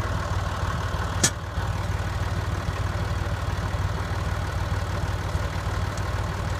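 Tractor engine idling steadily with a fast, even low pulse, and a single sharp click about a second in.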